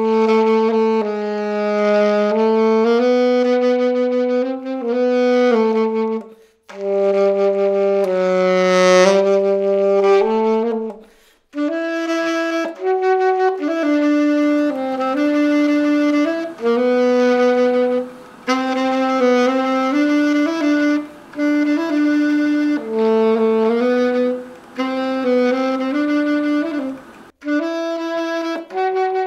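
Selmer Mark VI alto saxophone played solo in slow, sustained phrases separated by short pauses for breath, moving to a lower register about twelve seconds in. The freshly overhauled horn is being play-tested.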